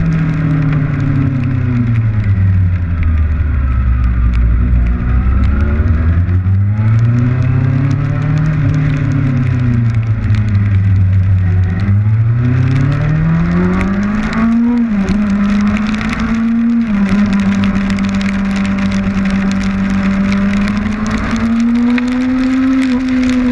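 Kawasaki Ninja motorcycle engine under way, its revs rising and falling several times as the bike speeds up and slows, then holding fairly steady from about two-thirds through. Rain hits the camera in a dense patter of fine ticks over a steady rush.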